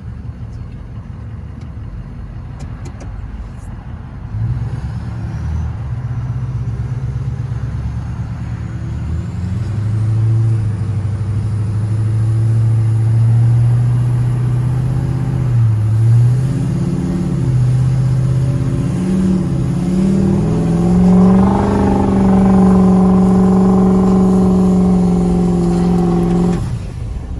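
Tuned and emissions-deleted 6.0 Powerstroke diesel of a 2005 Ford F-250 revving hard under heavy throttle as the rear wheels spin on snow in two-wheel drive. The engine pitch climbs in steps, dips briefly about sixteen seconds in, holds high, then drops off sharply near the end.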